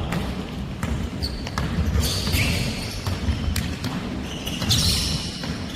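Basketball game play in a gym: a basketball bouncing on the court amid footfalls, with several short high squeaks of sneakers on the floor, the loudest about two seconds in and near the end.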